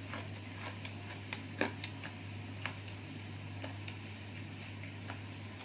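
Irregular small clicks and crunches of someone eating: chewing raw leafy vegetables and salted fish, with mouth sounds, over a steady low hum.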